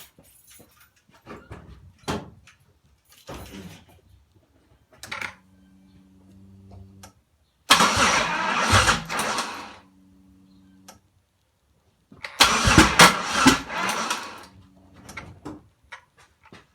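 2007 Pontiac Grand Prix 3800 Series III V6 cranked twice on the starter, each attempt about two seconds, without the engine catching: a no-start the owner says sounds like misfiring and suspects may be low compression in a cylinder or the timing. A faint steady hum sounds between the attempts, after clicks at the start.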